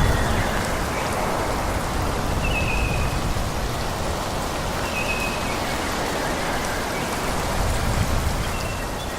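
Steady wind rushing through forest trees, swelling and easing, while a bird repeats a short, high, slightly falling whistle every two to three seconds.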